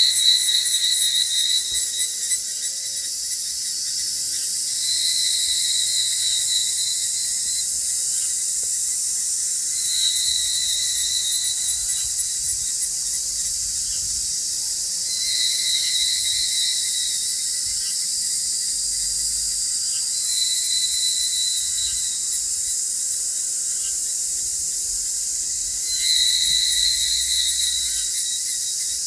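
Outdoor insect chorus: a steady high-pitched hiss of many insects, with a louder pulsing insect call about two seconds long that repeats roughly every five seconds.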